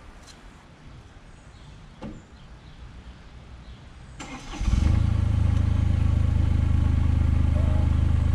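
Diesel engine of an ASV RT25 compact track loader running steadily at one speed, coming in loud about four seconds in after a few seconds of faint background.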